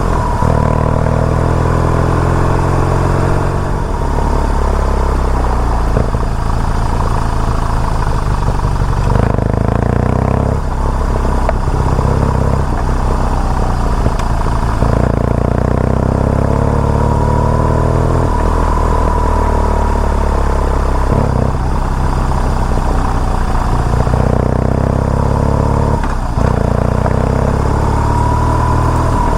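BMW R nineT Urban G/S boxer twin engine running while riding, its pitch climbing and falling repeatedly with brief dips in between.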